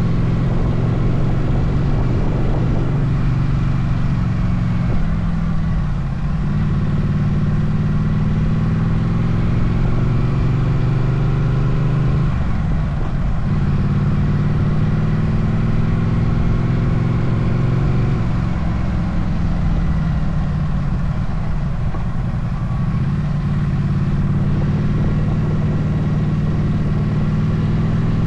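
Motorcycle engine running on the move, its pitch climbing steadily and then dropping back about six and about thirteen seconds in before climbing again, over a constant rush of wind and road noise.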